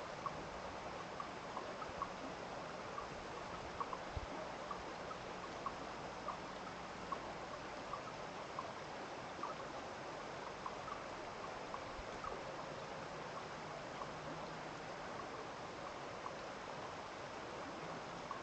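Running water in a small stream: a steady rushing, with small irregular plinks and gurgles one or two times a second.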